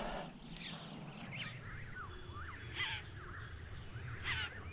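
Faint bird calls: several short chirps that sweep up and down in pitch, in a few groups spread across a few seconds.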